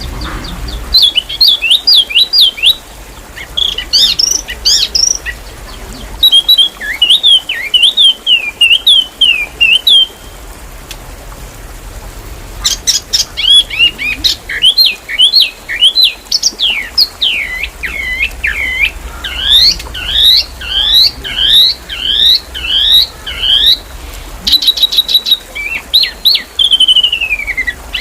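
A songbird singing fast, tightly packed runs of sharp rising and falling chirps in phrases of a few seconds, broken by a pause of about two seconds partway through, with quick clicking notes in places. It is a dense, rapid-fill song of the kind played as a masteran lure for caged songbirds.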